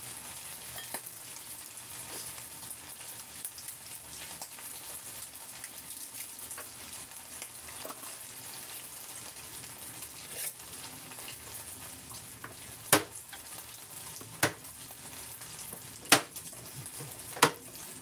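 Food sizzling steadily as it fries in a pan, with four sharp knocks in the last five seconds.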